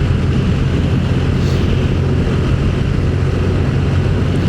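Motorcycle riding at a steady speed: an even engine drone under constant wind and road noise.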